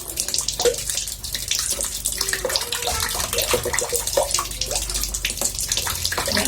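Water splashing and trickling in a bathtub: a steady hiss of moving water broken by many small splashes and drops.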